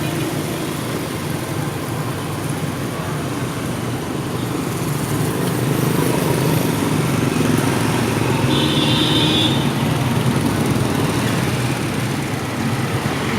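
Steady city street traffic, vehicle engines running and passing, growing a little louder in the middle. A brief high-pitched tone sounds about nine seconds in.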